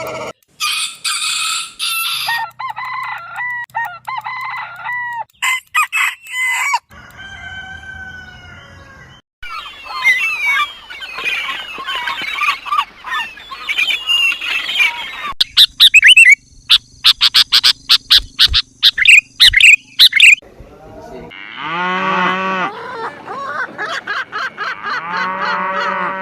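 A run of short animal-call clips, each cut off abruptly, mostly chickens: hens clucking and a rooster crowing.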